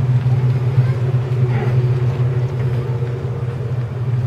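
Heavy demolition machine's diesel engine running at a steady speed, a constant low drone.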